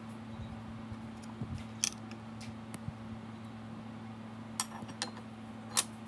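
Metal tools and small engine parts being handled, giving scattered short clinks and taps, two sharper ones about two seconds in and near the end, over a steady low hum.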